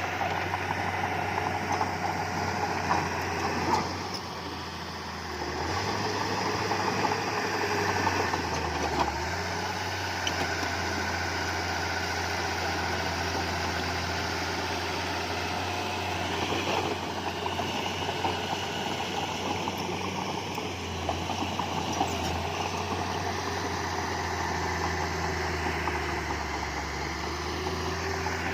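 Heavy diesel earthmoving machinery running steadily, with a brief dip in engine level about four seconds in and a few scattered knocks.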